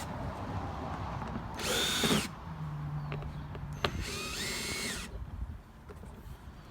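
Power drill set to reverse, running in two short bursts to back out the screws holding the generator's side cover; each burst spins up quickly and then holds its pitch, the second about twice as long as the first.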